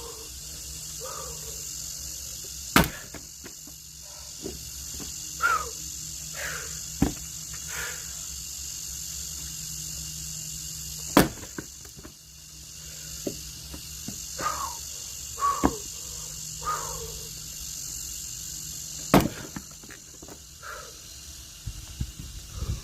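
Axe strikes splitting logs: three sharp, loud cracks about eight seconds apart, with lighter knocks between. A steady high drone of crickets runs underneath.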